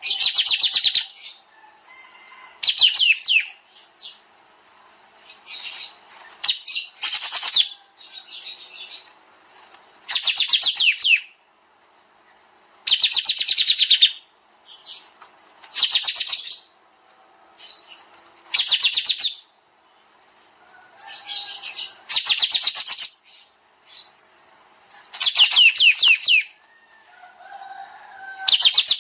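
Kapas tembak songbird singing its 'nembak' song: short, dense, rapid trilled bursts, high-pitched, repeated every couple of seconds.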